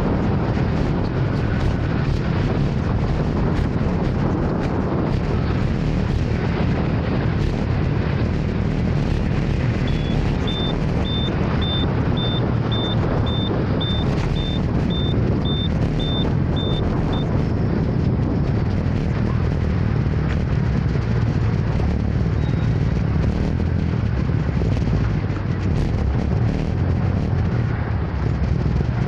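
Motor scooter ride through city traffic: steady engine, wind and road noise. A high electronic beep repeats about twice a second for several seconds in the middle.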